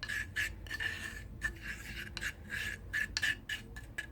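A spoon stirring and scraping a thick baking soda and milk paste against the sides of its container, in quick, uneven strokes.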